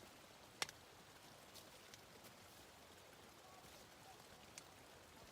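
Faint steady background hiss with a few scattered sharp ticks, the loudest just over half a second in.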